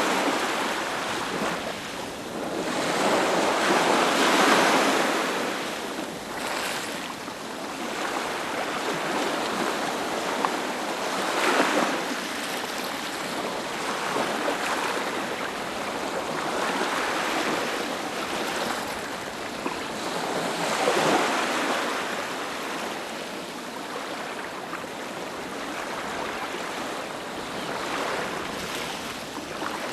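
Ocean surf breaking and washing up a beach, each wave swelling and falling away over several seconds, with the loudest surges about four, eleven and twenty-one seconds in.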